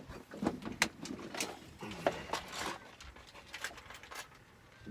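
Scattered light clicks and knocks from fishing tackle being handled while a new hook is put on.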